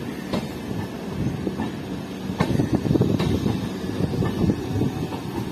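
Passenger coaches of the Maitree Express rolling past, their wheels rumbling on the rails with several sharp clacks at uneven intervals as they cross rail joints.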